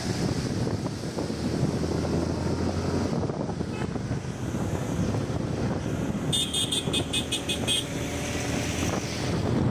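Motorcycle riding along, its engine running steadily under wind noise on the microphone. About halfway through comes a rapid run of high-pitched beeps lasting about a second and a half.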